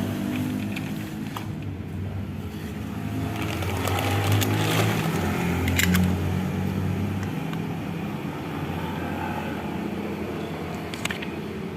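Motor vehicle engine running, a steady low hum that swells a little in the middle, with a few sharp clicks.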